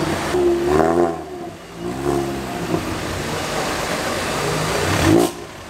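A car engine running with its pitch rising and falling three times in short revs, over steady road noise.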